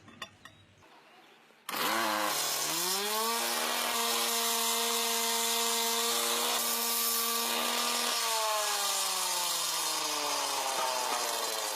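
A motor-driven road-cutting machine starts suddenly, its whine rising over about a second, then runs steadily with a loud hiss of cutting into the road surface. About eight seconds in the whine begins to fall slowly as the machine winds down.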